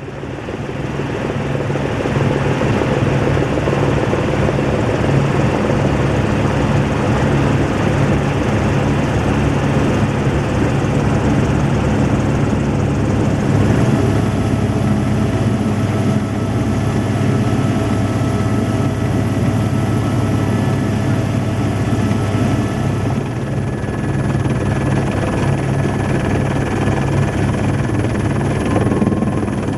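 Helicopter in flight, heard from on board: loud, steady rotor noise with a deep, even drone. It fades in over the first couple of seconds, and a few thin steady whining tones join about halfway through.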